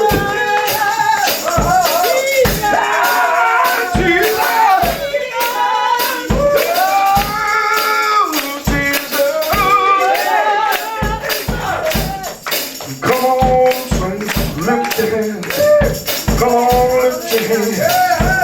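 Live gospel praise music: voices singing over a steady beat, with a tambourine shaking along.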